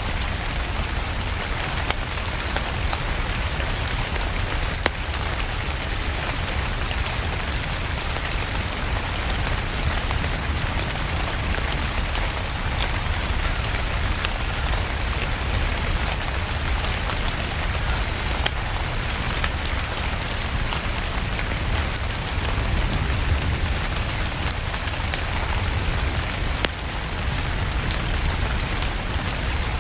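Steady rain with a low rumble underneath, and scattered sharp pops from a crackling wood fire.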